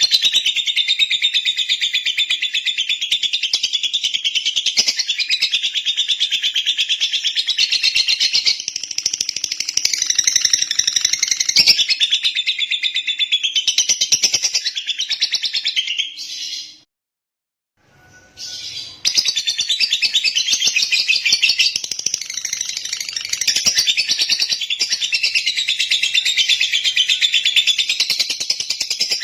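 Lovebird singing a long, rapid, high-pitched chattering run of chirps. It breaks off for about two seconds a little past the middle, then starts again.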